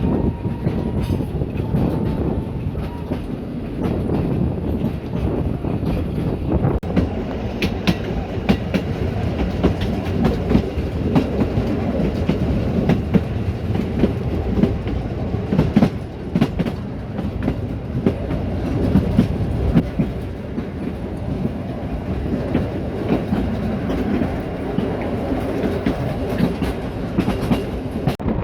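Narrow-gauge steam train running along the line, with a steady rumble and wheels clicking repeatedly over the rail joints.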